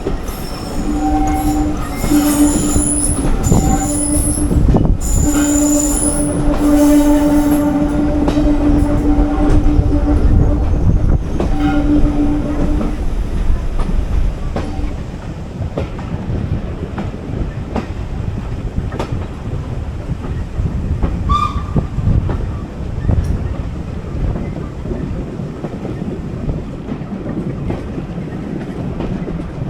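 Heritage train running along the track with a steady low rumble. Over roughly the first dozen seconds a long pitched tone sounds on and off above the rumble, and a short higher tone comes about two thirds of the way through.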